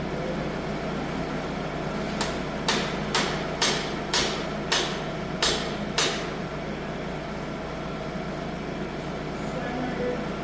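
Eight sharp knocks in quick succession, about two a second, over a steady low engine hum from the idling tractor.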